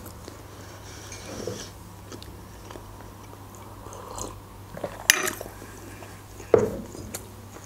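Close mouth sounds of a person chewing food and sipping a drink from a mug, with a sharp clack about five seconds in and a duller knock a moment later.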